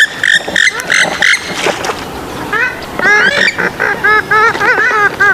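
Gallinules (swamphen and moorhen) calling: a run of short, harsh calls about three a second, a brief lull about two seconds in, then a quick series of calls that bend up and down in pitch, several a second.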